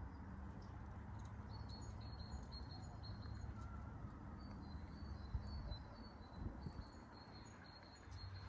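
A songbird singing a repeated short high note in two steady series, about three to four notes a second, over a steady low rumble.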